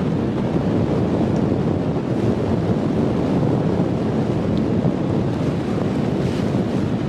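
Steady wind rumbling on the microphone over the rush of surf.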